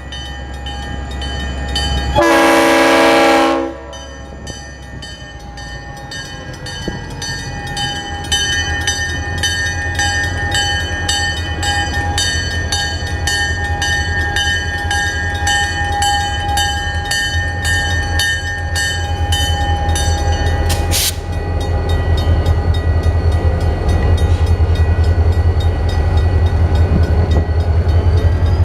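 Leslie RS5T five-chime air horn on an EMD GP40-2 sounds one short blast about two seconds in, over a grade-crossing bell ringing in steady rapid strokes. Then the locomotive's diesel engine rumbles louder as it creeps across the crossing, with one sharp clank near the end.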